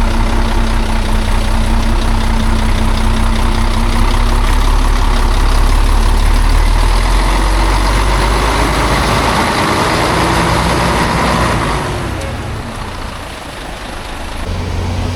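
A heavy truck's engine running, then working harder with a louder, rougher noise for a few seconds. It drops away about twelve seconds in and picks up again near the end.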